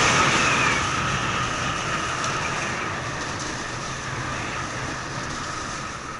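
Snowboard sliding over snow: a steady scraping hiss with a faint whine in the first second, slowly fading.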